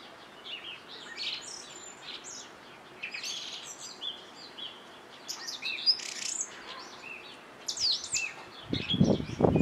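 Small birds chirping, many short high chirps and quick sliding notes scattered through. A louder low rushing noise comes in near the end.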